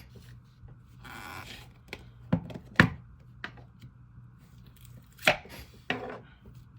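Clay-base slime with clear slime being handled, giving a soft rustle and then several sharp pops and clicks at uneven intervals.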